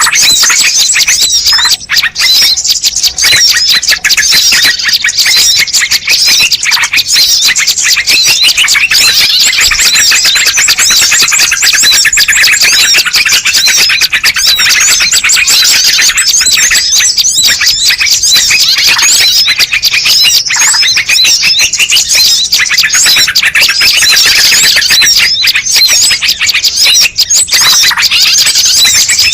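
A dense, unbroken chorus of many small birds chirping and twittering at once, with rapid high calls overlapping one another. It is a bird-luring (pikat) call recording, made to draw wild birds in.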